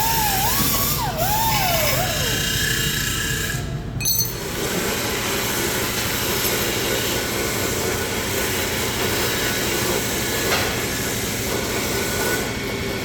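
Background music with a wavering lead melody for the first couple of seconds, then a steady, dense machining noise from a workshop power tool from about four seconds in.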